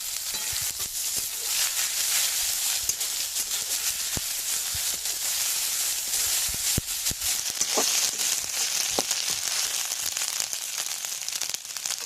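Chopped onion and spice pastes frying in hot oil in a pan: a steady sizzle with fine crackling, and a few sharp knocks.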